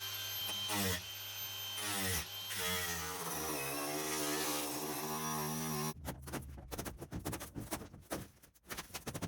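Angle grinder with a grinding disc running and cutting a non-metal caravan wall sheet. It cuts out briefly twice early on, then runs for several seconds with its motor pitch sagging and wavering under the load of the cut. About six seconds in it stops, and a run of knocks and clatter follows.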